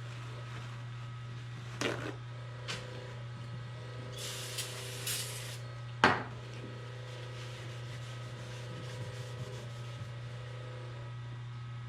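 A few sharp knocks, the loudest about six seconds in, and a short hiss about four seconds in, over a steady low hum.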